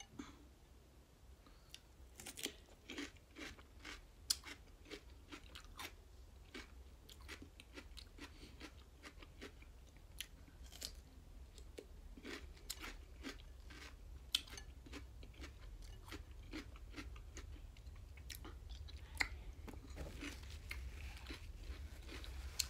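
A person chewing food close to the microphone, with irregular mouth clicks and smacks throughout.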